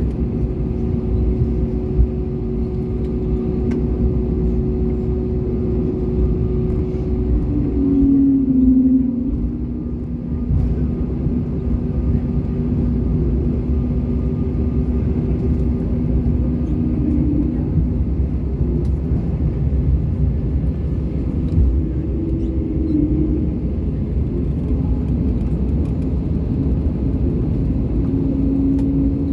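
Steady low rumble of an Airbus A320neo's engines and airframe heard from inside the passenger cabin, with a few steady humming tones running through it.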